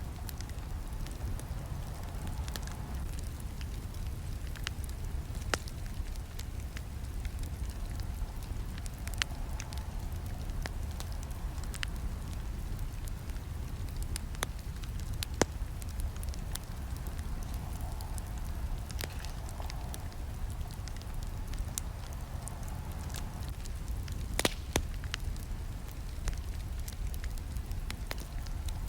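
Campfire burning: a steady low rumble of flames with scattered sharp crackles and pops of burning wood. The loudest snap comes near the end.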